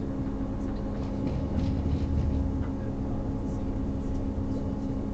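Inside a Class 158 diesel multiple unit under way: the steady drone of the underfloor diesel engine over the low rumble of the wheels on the track.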